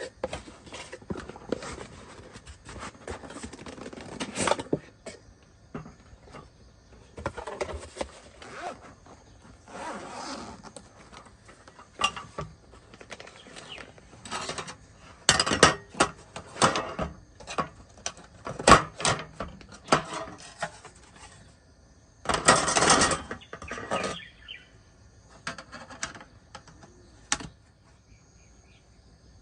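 Camping Ace cube stove being unpacked and handled: irregular knocks, clicks and rustling, busiest in the middle and again about two-thirds of the way in. Insects chirp steadily in the background.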